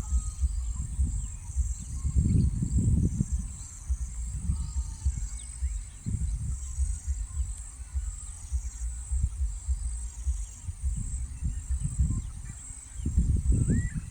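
Wind buffeting the microphone in uneven gusts, heaviest about two to three seconds in and near the end. Behind it runs a steady high-pitched pulsing insect chorus, with faint bird chirps.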